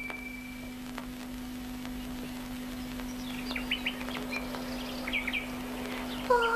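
Birds chirping and twittering in short, quick groups from about three seconds in, over a steady low hum. A ringing musical note fades out at the start, and a louder held call begins near the end.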